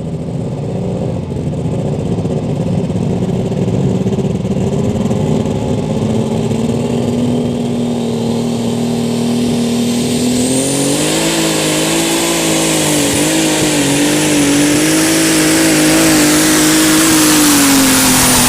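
Turbocharged light super stock pulling tractor's engine under full load during a pull, its pitch climbing slowly at first, then stepping higher and wobbling about ten seconds in as a high turbo whistle comes in, growing louder toward the end.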